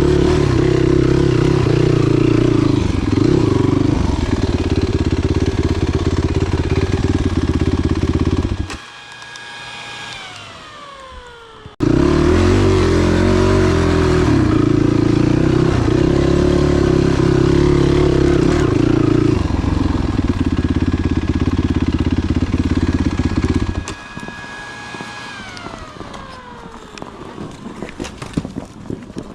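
Enduro motorcycle engine running under load. It drops away abruptly twice, each time leaving a fainter whine that falls in pitch, and comes back suddenly in between. A few clicks sound near the end.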